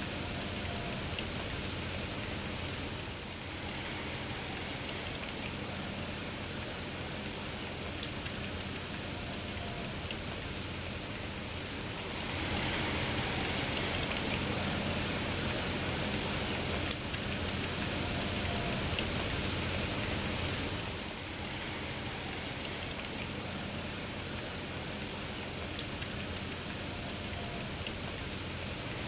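Steady rain falling, swelling louder for several seconds around the middle, with three sharp single ticks of drops striking a surface.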